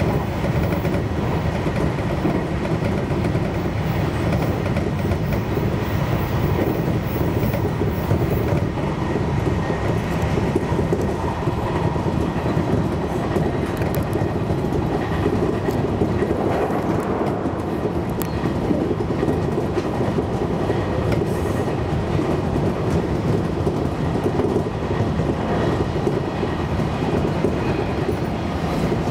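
JR Kyushu 813 series electric train running steadily at speed, heard from just behind the driver's cab: a continuous rumble of wheels on rails.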